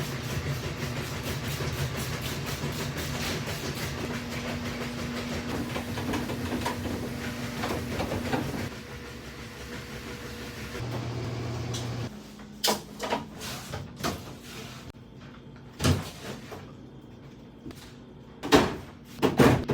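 A steady low hum for about twelve seconds, then a run of sharp knocks and clatters of food containers and items being handled and set down while a refrigerator is cleaned out and restocked.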